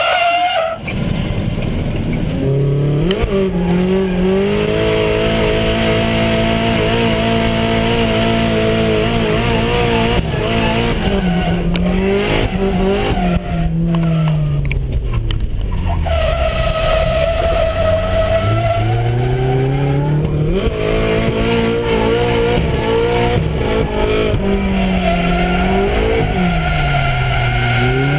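Nissan 180SX's four-cylinder engine revving hard while drifting, its revs falling and climbing again several times, with tyre squeal at times.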